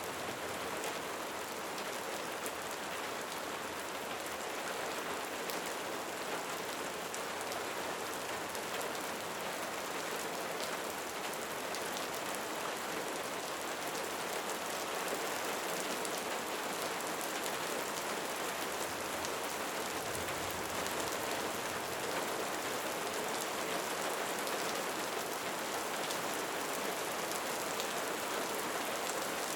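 Steady rain falling on a surface, an even hiss thick with the patter of individual drops, growing slightly louder about halfway through.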